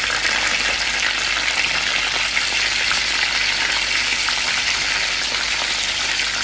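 Chicken pieces browning in hot oil in a pan: a steady sizzle with small pops, the frying step before the chicken is stewed down.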